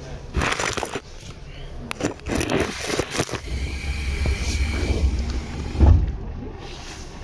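Tobu 10030 series electric train running, heard inside the car: rattling and a steady low rumble, with a heavy low thump just before six seconds in.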